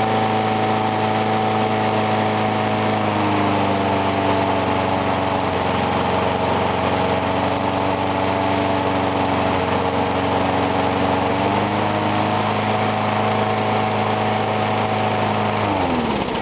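4 hp Briggs & Stratton lawn mower engine running steadily after a cold start, on fuel with water in it. Its speed sags slightly for several seconds and picks back up, and near the end it winds down and stops.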